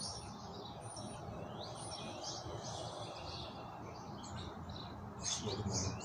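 Small birds chirping repeatedly over a steady background hiss.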